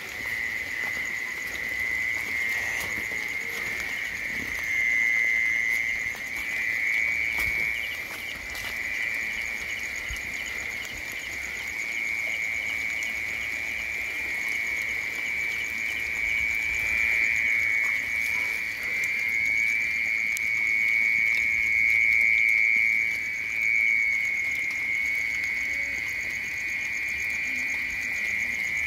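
Dense, steady chorus of calling frogs or insects: one unbroken high trill, with a faster ticking pulse laid over it in the first half.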